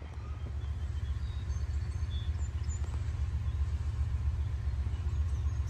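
Low, steady rumble of a distant approaching CSX freight train, slowly growing louder, with a few faint bird chirps.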